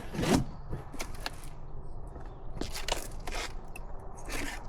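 Packaging being handled and pulled apart by hand: a series of irregular crinkling, scraping rustles, the loudest about a third of a second in.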